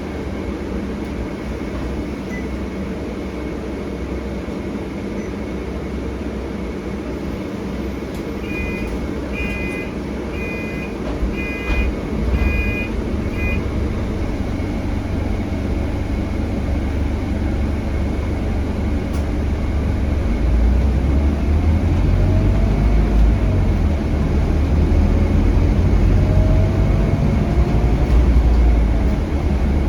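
Interior sound of a Scania K320HB bus with its five-cylinder DC9 diesel: a steady low rumble, and a short run of electronic beeps about a third of the way in. In the second half the engine grows louder, with faint rising whines as the bus accelerates.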